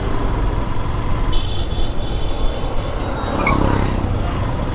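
Motorcycle riding in heavy road traffic: a steady low rumble of engine and road noise, with a few brief high steady tones from the surrounding traffic.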